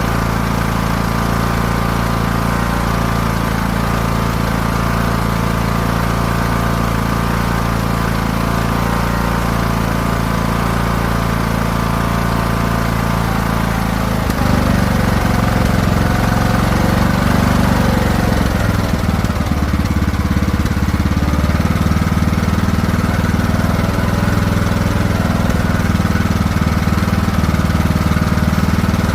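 Craftsman T1600 riding lawn mower engine running steadily while mowing; about halfway through it gets louder and its pitch shifts and wavers briefly before settling again.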